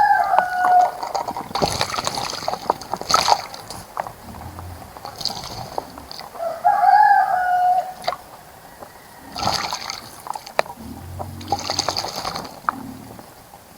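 Birds splashing in a bird bath, in several short bursts of splashing, with a bird calling briefly at the start and again about seven seconds in.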